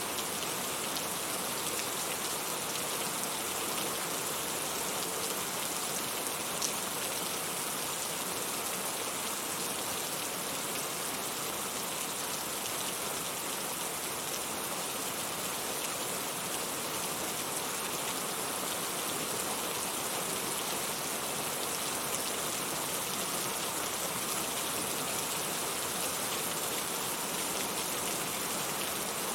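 Heavy rain falling steadily, an even hiss with no thunder. A single brief tick stands out about seven seconds in.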